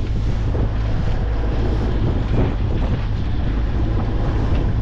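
Wind buffeting the microphone over the rush of water around a yacht under way, with a steady low rumble underneath.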